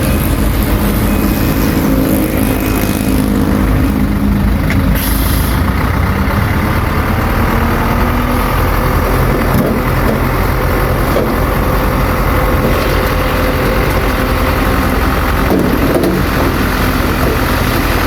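A heavy earthmoving machine's diesel engine runs steadily and loudly. A short hiss comes about five seconds in.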